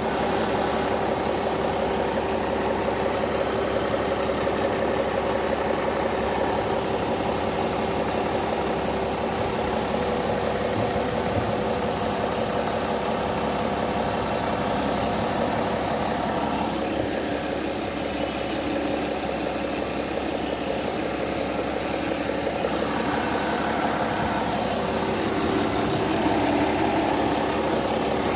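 Warm car engine idling steadily, its note shifting a little partway through and again near the end.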